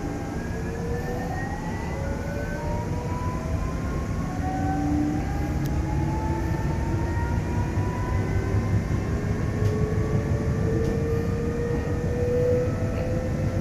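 Alstom X'Trapolis electric train heard from inside a car while accelerating: several whining tones from the electric traction motors rise steadily in pitch over a constant low rumble of wheels on rail.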